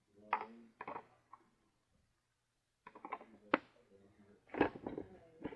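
Neato D9 robot vacuum's plastic dust bin being handled and emptied: a run of sharp clicks and knocks, the loudest about three and a half seconds in and again near the end.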